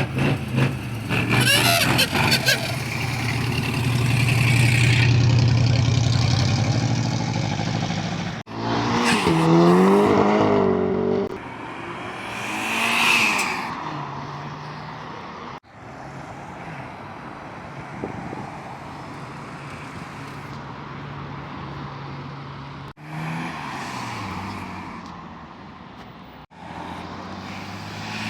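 A string of short takes of vehicle engines revving and accelerating hard as they pull away and pass by. The pitch rises and falls sharply about nine seconds in, and each take cuts off abruptly.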